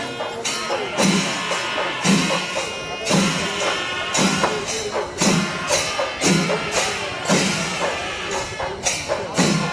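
Kerala temple percussion ensemble playing loud festival melam: chenda drums with ilathalam hand cymbals crashing, in a steady beat about once a second.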